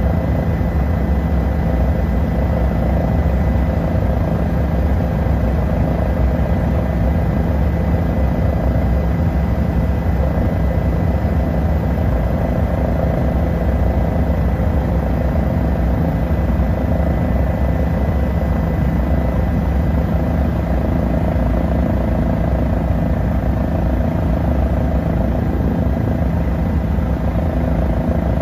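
Tour helicopter's engine and rotor running steadily: a loud, even noise with a constant thin whine over it.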